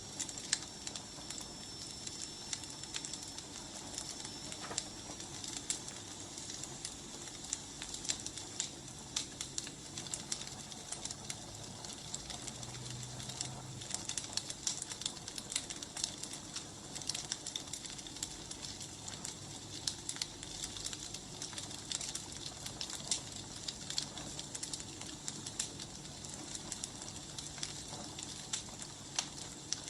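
Firewood burning, with a steady soft hiss and frequent small, irregular crackles and pops.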